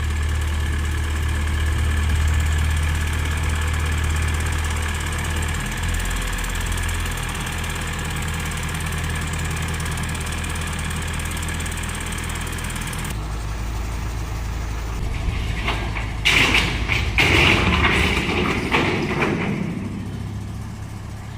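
A large engine running steadily with a low hum. Its tone shifts a couple of times, and about three-quarters of the way through a few seconds of louder, irregular clattering noise come over it.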